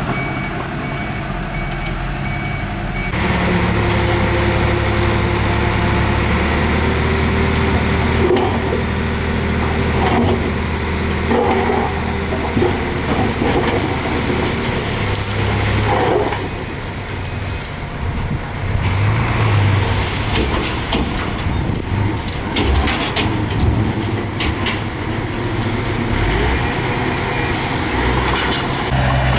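Heavy diesel engine of earthmoving machinery running under changing load; its note steps up about three seconds in, with clanks and rattles now and then.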